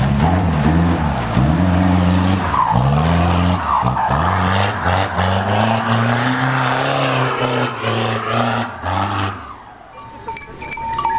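Off-road 4x4 engine revving up and down again and again under load, with a rushing noise of tyres or wheelspin. Near the end the engine sound drops away and small bells start jingling.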